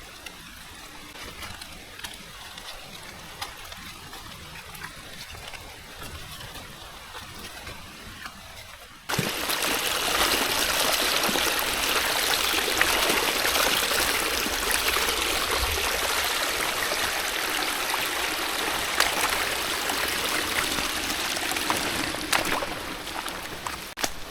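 Rain-season water noise, a steady rushing hiss with light ticks that jumps suddenly to a much louder, even rush about nine seconds in and stops abruptly near the end.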